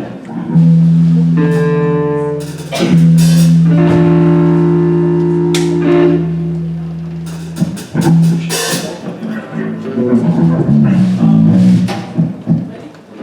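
Live band playing an instrumental intro: long held chords with cymbal crashes, then a busier run of shorter notes near the end.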